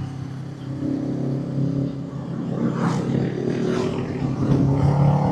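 Motorcycle engine running steadily under way on the open road, mixed with road and wind noise.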